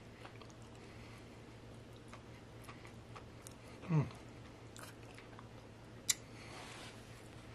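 Quiet chewing of a mouthful of chocolate-coated cake bar, with small scattered clicks from the mouth. About four seconds in a short hum falls in pitch, and about six seconds in there is one sharp click.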